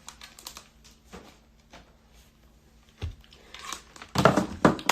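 Rustling and crinkling handling noises with scattered soft clicks, a dull thump about three seconds in, and louder rustling near the end.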